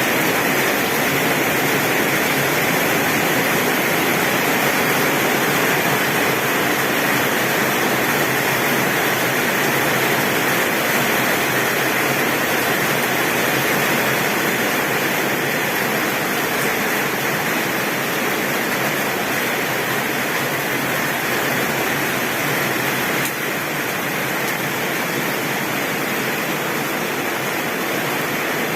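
Heavy rain drumming steadily on a tin roof, an even hiss with no thunder, dipping slightly in loudness about 23 seconds in.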